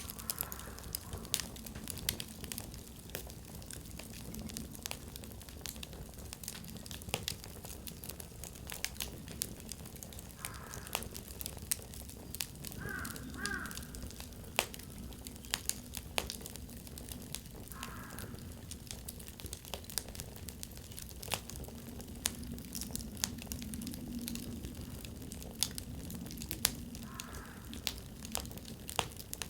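Firewood burning in an open campfire, crackling with frequent sharp pops at irregular intervals over a steady low rumble of flame.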